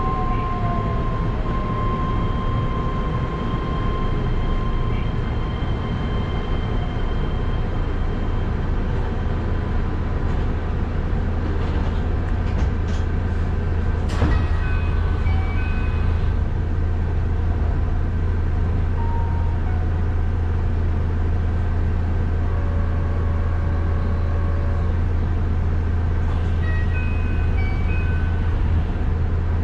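Keihan electric commuter train standing at a station. A falling motor whine dies away at the start as it comes to rest, then a steady low hum runs on. About halfway there is a single clunk. Short electronic chime tones sound twice, once just after the clunk and again near the end: the door chimes.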